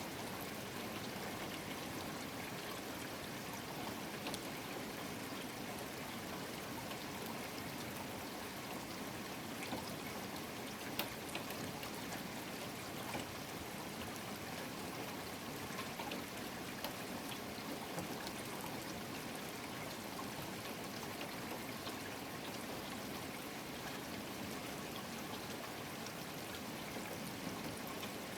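Steady rainfall, an even hiss of rain with water trickling and running off, and scattered drops ticking; one sharper drip about 11 seconds in.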